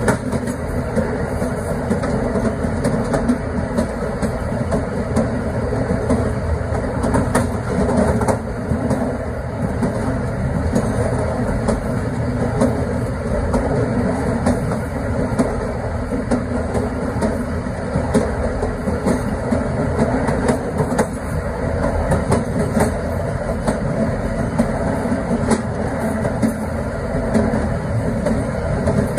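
Passenger train running along the line, heard from the last coach: a steady rumble of wheels on the rails with scattered faint clicks.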